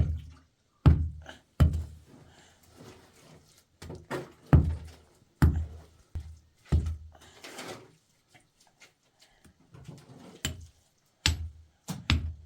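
A series of heavy thuds and knocks at uneven intervals, about a dozen in all, with a brief scraping rustle between them.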